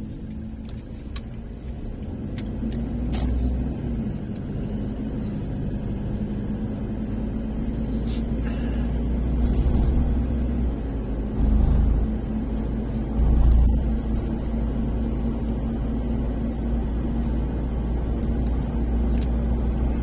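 A motor vehicle running: a steady low engine hum and road rumble that slowly grows louder, with two stronger low surges a little past halfway.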